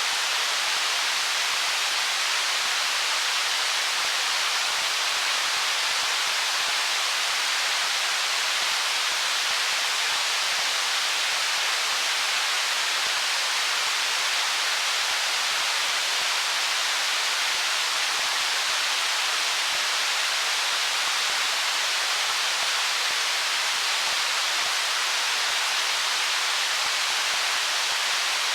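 A stream running over rocks, a steady, even rushing hiss with no change in level.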